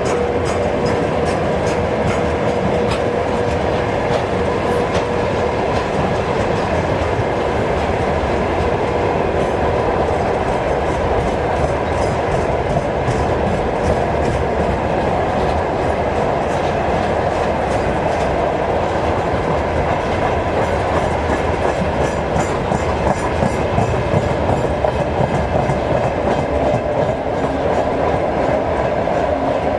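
Train wagons rolling steadily along the track, the wheels clacking over the rail joints without a break.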